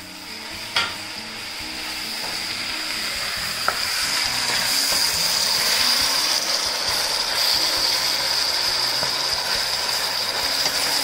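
Chopped green beans, oyster mushrooms and onion sizzling in oil in a stainless steel pan as they are stirred with a wooden spatula. The sizzle builds over the first few seconds and then holds steady, with two sharp knocks, one about a second in and one near four seconds.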